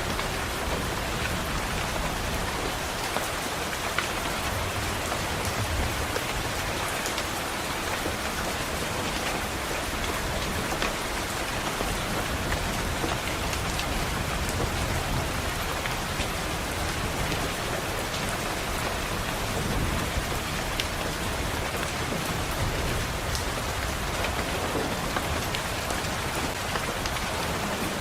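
Steady rain pattering on a window pane, a continuous even hiss with scattered drop ticks. Low rumbles of distant thunder swell and fade a few times.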